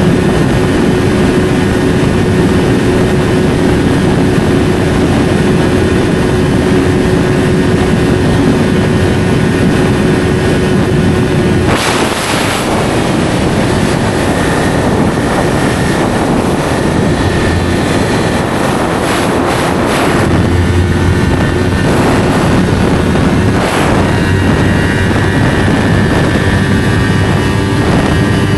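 Yamaha R3's parallel-twin engine running through an SC Project slip-on exhaust while riding. It holds a steady note, which breaks off about twelve seconds in, and the engine then runs at a lower, changing note.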